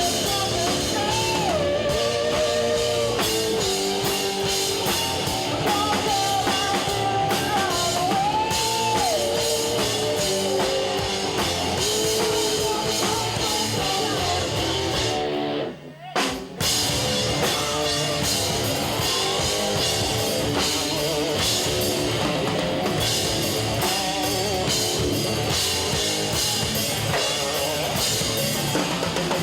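Rock band playing live: drum kit and electric guitars, with a melodic lead line over the first half. A little over halfway through the band stops abruptly for about a second, then comes back in at full volume.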